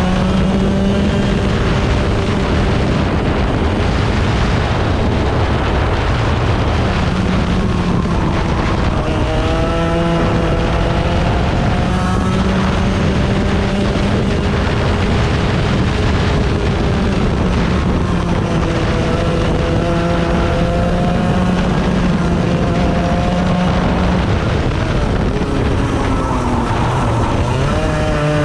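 A 100cc racing engine at full throttle, rising in pitch as it accelerates and dropping back as it slows, several times over. It runs loud and steady throughout.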